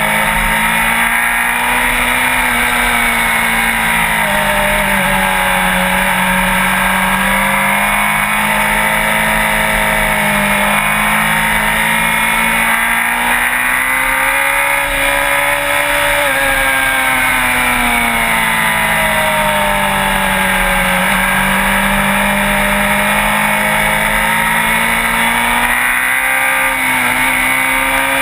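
Sport bike engine running at speed, its pitch rising and falling slowly as the revs change.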